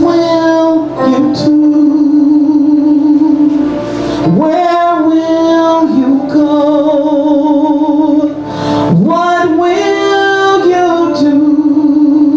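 A woman singing a slow song, holding long notes with vibrato over instrumental accompaniment.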